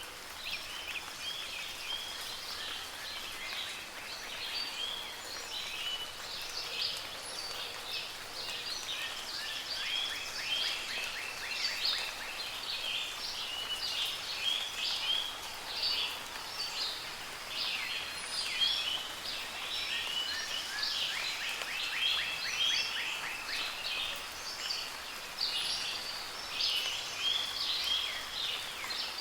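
A chorus of many birds chirping and singing at once: dense short high calls with rapid trills now and then, over a soft steady hiss of light rain.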